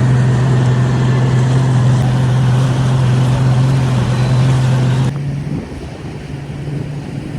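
A boat's outboard engine running at a steady speed with a strong, even low hum. The hum cuts off abruptly about five seconds in, leaving quieter running and wind noise.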